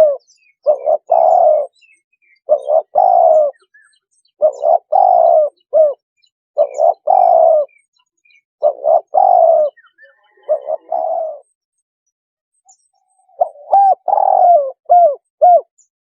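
Spotted dove cooing: a phrase of several low coos repeated about every two seconds. After a pause of about two seconds near the end comes a last phrase that ends in a few short notes.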